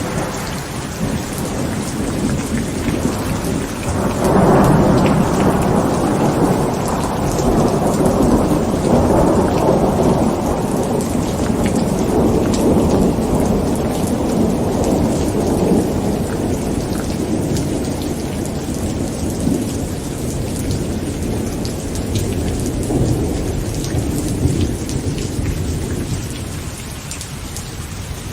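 Heavy rain falling on a tent, with a long rolling rumble of thunder that swells about four seconds in and slowly dies away.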